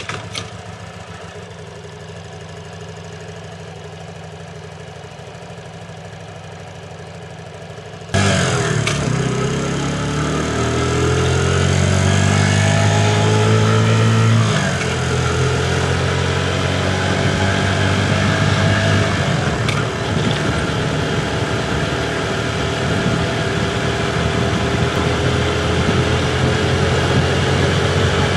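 Motorcycle engine running quietly at low revs. About eight seconds in it gets suddenly louder and pulls away, its note rising for several seconds, dropping at a gear change, and then holding steady while riding.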